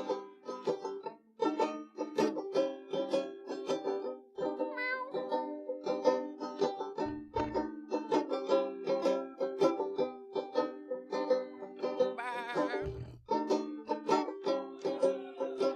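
Live solo instrumental break on a plucked string instrument, in the banjo or ukulele family, picked in a quick, steady run of notes.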